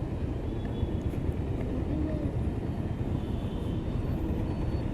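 Yezdi Adventure motorcycle's single-cylinder engine running, a steady low rumble.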